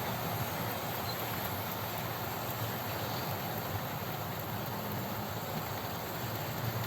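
Several OO gauge model trains running at the same time: a steady rumble and whirr of wheels on track and small electric motors.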